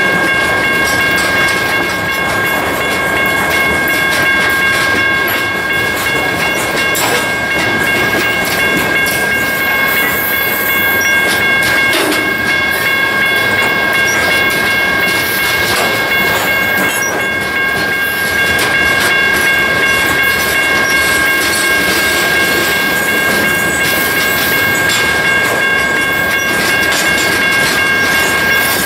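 Freight hopper cars rolling past close by: a steady rumble of steel wheels on rail, with frequent clacks over the joints and a steady high squeal of several tones over it.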